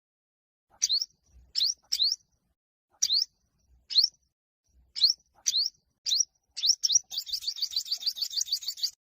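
Olive-backed (yellow-bellied) sunbird singing: short, sharp upward-sweeping chirps, often in pairs, then a fast trill of about eight notes a second near the end. This is the male's territorial 'fighting' song.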